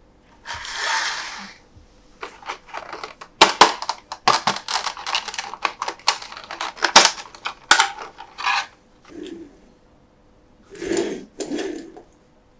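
Hands unboxing a toy monster truck and handling its packaging: a brief rustle, then a quick run of sharp clicks and taps, then two more short rustles near the end.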